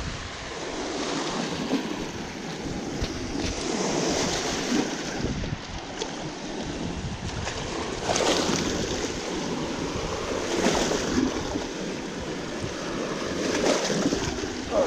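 Wind buffeting the microphone over waves washing at the shore, the noise swelling and easing every few seconds.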